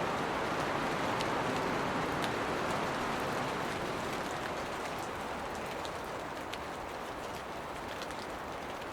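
Steady rain shower falling on foliage, a dense even hiss with scattered higher drop ticks, easing slightly about halfway through.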